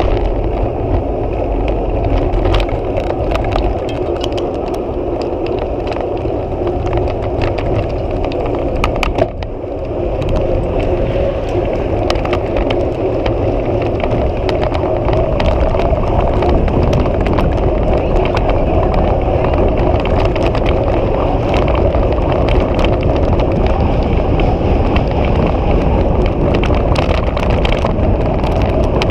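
Riding noise of a bicycle in motion: a steady rumble with frequent small clicks and rattles, and a brief knock about nine seconds in.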